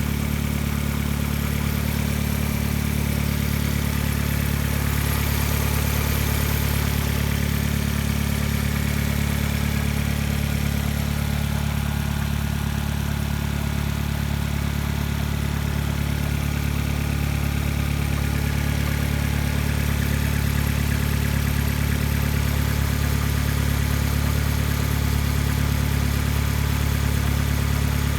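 2006 Vauxhall Astra VXR's 2.0-litre turbocharged petrol four-cylinder engine idling steadily, with no revving.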